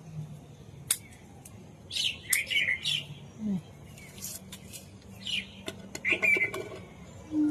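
Small birds chirping in short, repeated high calls, with a few sharp clicks between them.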